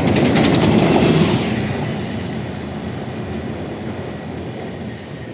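A Lisbon city tram passing close by, its wheels clicking and rattling on the rails. The sound is loudest in the first second and a half, then fades as the tram moves away.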